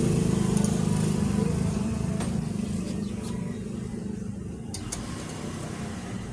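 Motorcycle engine running steadily, growing gradually quieter.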